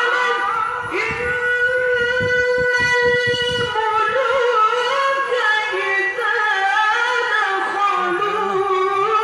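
Qari reciting the Qur'an in melodic tilawah style in a high voice, in maqam Rast at its third, highest level: a long note held steady for about three seconds, then winding into ornamented melismatic runs.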